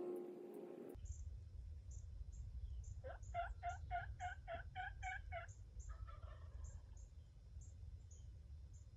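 A series of about nine turkey yelps, evenly spaced at roughly three or four a second, about three seconds in. Wind rumbles low on the microphone, and faint high ticks repeat throughout.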